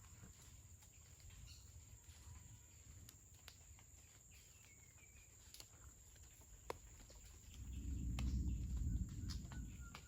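Rainforest ambience: a steady high insect drone with scattered sharp ticks and a brief bird chirp. A low rumble swells up near the end and lasts a couple of seconds.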